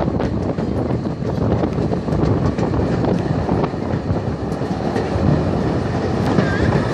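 Steady rumble of a moving museum train, with faint clicks from the wheels on the track.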